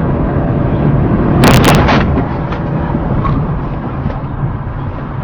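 Steady rumble of a moving vehicle on a dashcam, broken about one and a half seconds in by a loud crash of two sharp bangs close together, then a few smaller clatters: a traffic collision.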